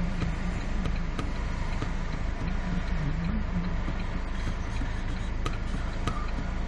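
Car interior noise while stopped at traffic lights: the engine idling with a steady low rumble, with a few faint clicks.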